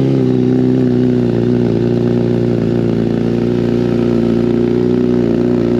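Suzuki motorcycle engine idling steadily and loudly just after a cold start.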